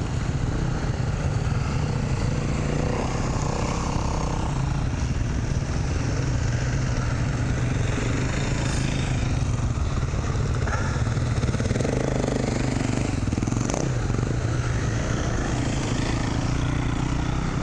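Dirt bike engine running steadily, a low even drone without revving.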